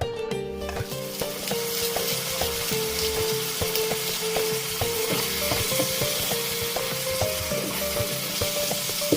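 Food frying in hot oil in a pan, sizzling steadily. Background music with held notes plays along.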